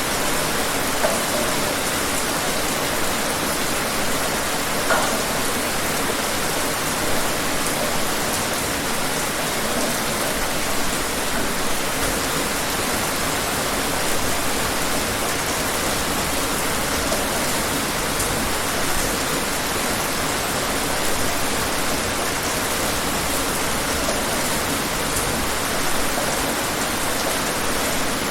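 Steady rain falling, a continuous even hiss with scattered individual drops standing out now and then.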